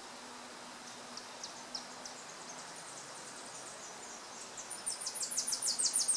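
A small songbird singing a high, thin song: separate notes at first, then speeding up into a loud, rapid series of downslurred notes near the end.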